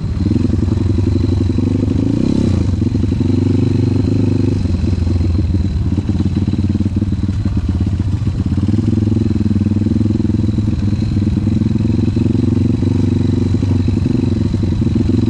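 Off-road trail motorcycle engine running under way, its note holding fairly steady. It eases off about a third of the way in and picks up again just past halfway.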